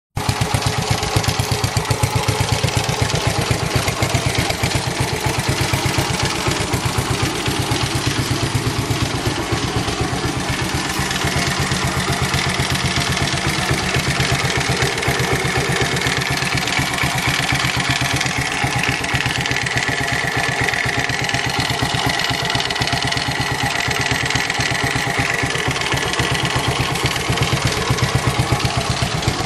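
Car engine running steadily with a rapid, even knocking, the engine knock that is taken to be a fault. A faint high whine rides over it through the middle.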